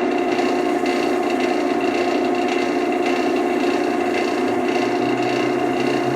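Wood lathe running at a steady speed with a constant hum and whine, and a rough rubbing sound against the spinning wood. A lower hum joins in about four seconds in.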